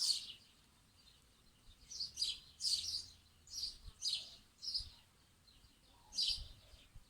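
Songbirds chirping in short, high bursts of quick notes, several phrases spaced irregularly with brief pauses between them.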